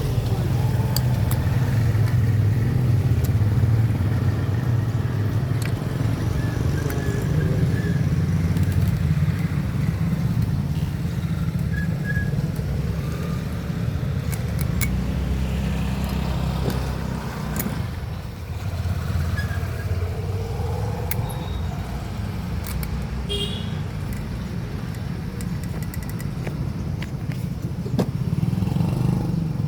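Motorcycle engine running steadily, with a brief dip about two-thirds of the way through and scattered light clicks over it.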